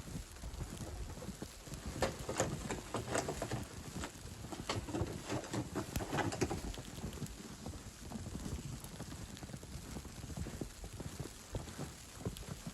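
Footsteps crunching in snow: a run of crisp steps, busiest in the first half, over a steady low rumble.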